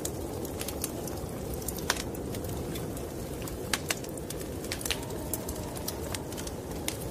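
Wood fire crackling, with sharp irregular pops over a steady low rumble of snowstorm wind.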